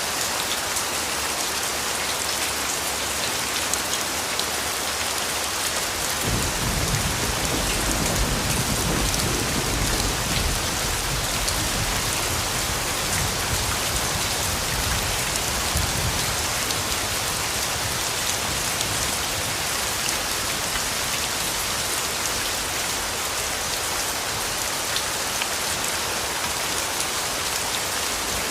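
Steady rain falling, an even hiss of drops. About six seconds in, a low rumble of distant thunder comes in suddenly and dies away over roughly ten seconds.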